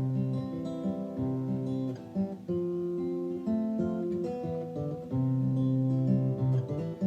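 Acoustic guitar playing an instrumental break in a country-folk song, notes and chords changing about once a second.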